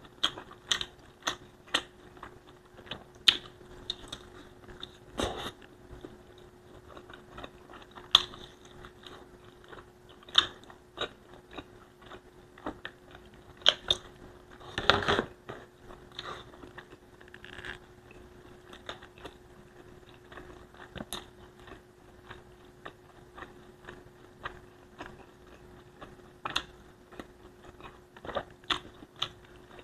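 Close-miked mouth sounds of someone eating Bicol Express, a pork stew in coconut milk and chilies, with rice: irregular chewing and biting with sharp smacks and clicks, and a louder cluster of them about halfway. A faint steady hum runs underneath.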